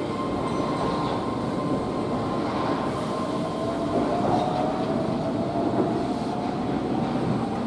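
Electric train running on rails: a steady rumble of wheels with a high whine that rises slowly in pitch from about three seconds in.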